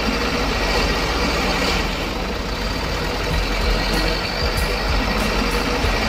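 A truck running with a steady, noisy rumble, with no distinct starts, stops or beats.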